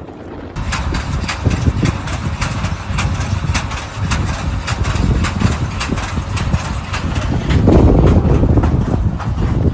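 A motor vehicle's engine running, with many short clicks and knocks over the low rumble. It grows louder about eight seconds in.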